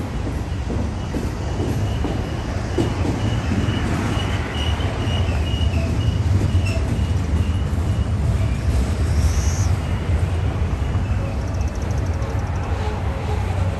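Freight train of tank cars rolling slowly past beneath, a steady low rumble of cars and wheels on the rails.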